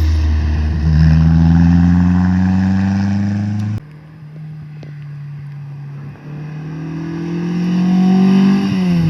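Rally car engine accelerating hard, its pitch climbing, then cutting off suddenly about four seconds in; a second engine then rises in pitch and grows louder, its pitch falling near the end.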